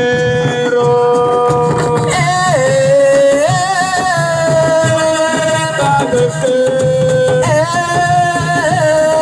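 Senegalese assiko music: hand drums keep a dense, steady beat under a voice holding long notes that step from one pitch to another.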